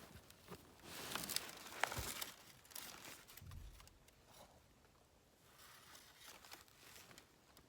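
Quiet, irregular rustling and crunching handling noises, with a few sharp clicks in the first two seconds, then fainter.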